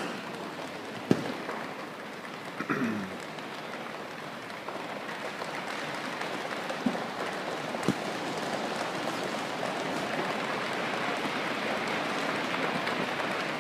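A choir making the sound of a rainstorm with their hands: a dense, even patter that slowly grows louder, with a few single sharp snaps standing out.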